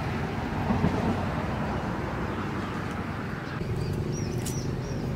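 Outdoor background: a steady low rumble, with a few short high bird chirps near the end.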